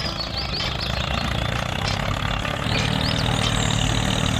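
Tractor engine running steadily, with faint high chirps near the start and again about three seconds in.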